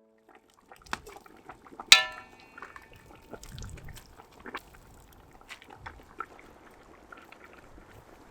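Clatter of utensils and dishes: small scattered clicks and knocks, with one loud ringing clink about two seconds in.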